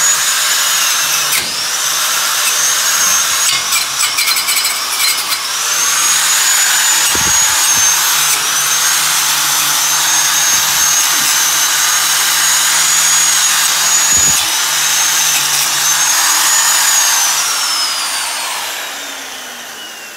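Electric grinder running at speed on steel parts, its high whine dipping each time it is pressed onto the metal, then winding down near the end as it is switched off.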